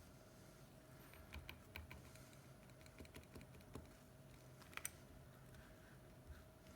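Faint, scattered small clicks and taps of hard little objects being handled, the loudest a sharp double click about five seconds in, over a faint steady hum.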